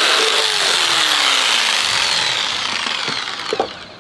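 Jigsaw cutting through a board with a slow feed, its blade rasping loudly. The cutting noise dies down about three seconds in, followed by a couple of knocks.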